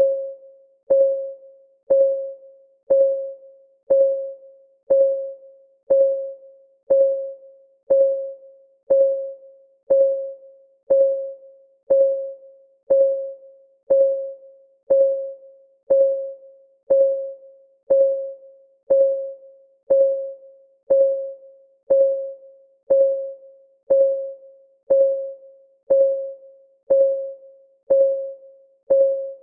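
Countdown timer's clock-tick sound, one tick a second, each a sharp click with a short pitched ring that fades before the next.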